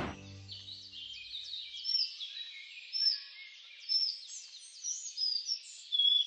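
Small birds chirping and singing, many short high notes overlapping, with louder calls about once a second from about two seconds in. The last low notes of music die away in the first second.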